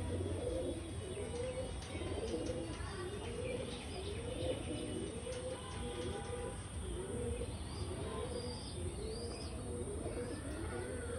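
Several pigeons cooing continuously, their calls overlapping one after another, over a steady low hum.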